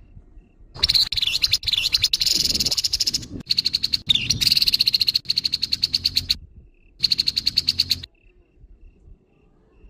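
Grey-headed babbler giving harsh calls: three bursts of fast, rattling chatter, the first two long and the last short, with faint thin pips in the pauses.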